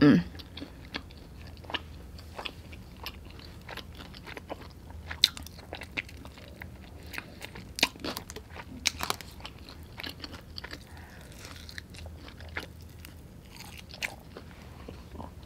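Close-miked chewing and biting of sauced chicken wings: irregular wet mouth clicks and crunches from teeth on meat and skin. A low steady hum runs underneath, from a clothes dryer left running.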